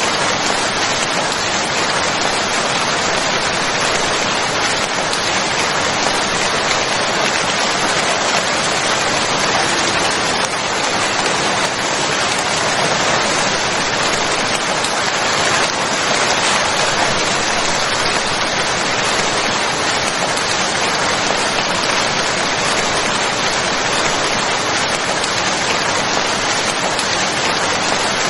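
Steady heavy rainfall, a dense, even hiss of drops.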